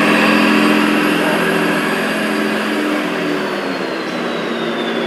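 A 1:8 scale model tractor's engine running steadily, its pitch shifting about three seconds in. A thin high whistle slowly falls in pitch through the second half.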